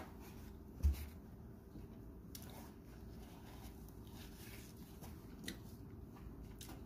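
Quiet close-up chewing and mouth sounds of someone eating pizza, with a single low thump about a second in.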